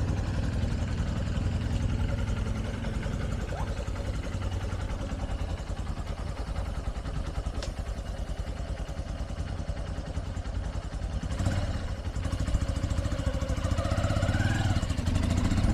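Honda XR150L's single-cylinder engine running steadily.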